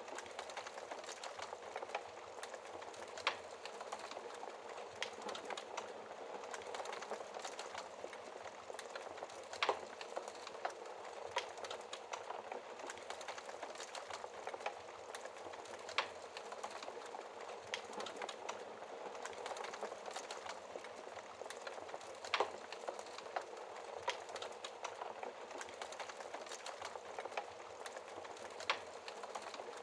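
Wood fire burning in a fireplace: a steady soft hiss of flames with constant small crackles and occasional louder sharp pops.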